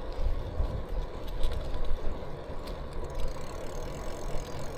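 Bicycle riding noise: low wind and road rumble on the bike-mounted microphone, with light mechanical clicking and rattling from the bike.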